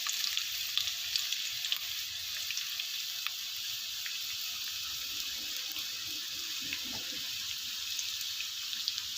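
Chopped garlic frying in hot cooking oil: a steady sizzle with small crackles and pops throughout, hot enough that it is at risk of burning.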